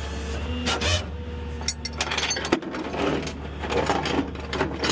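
A vehicle engine idling with a steady low hum, under scattered clicks, scraping and rubbing of handled metal gear.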